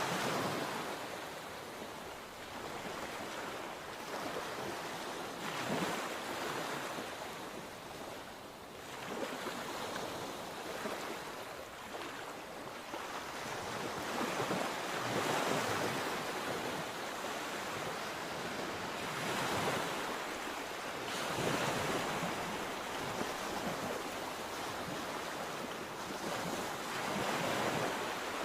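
Sea waves breaking and washing in one after another, each swelling and fading every few seconds over a steady rush of surf.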